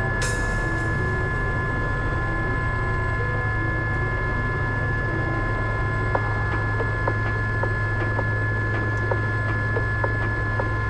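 Gazelle helicopter heard from inside the cabin in flight: a steady, loud drone with several constant high whines. A light, regular ticking, about two a second, comes in about halfway.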